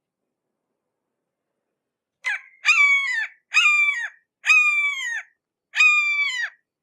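Hawk calling: a short note, then four drawn-out, clear-pitched calls of under a second each, spaced about a second apart, each holding its pitch and dropping away at the end.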